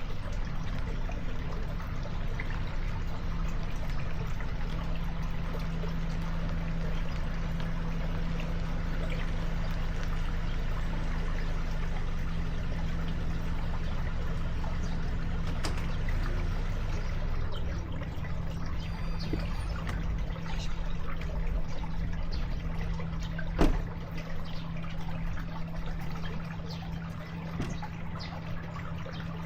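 Water running steadily, with a low steady hum under it and one sharp knock about three-quarters of the way through.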